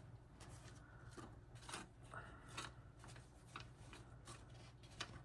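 Faint scattered rustles and soft clicks of paper money being handled and put in place, over a low steady hum.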